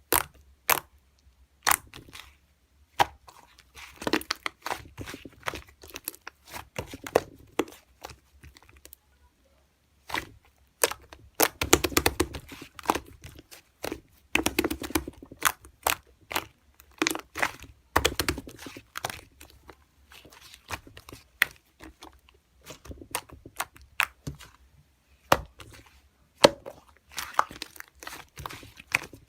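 Irregular crackling, crunching and tearing sounds, close up, in clusters of sharp clicks with a short pause a third of the way through.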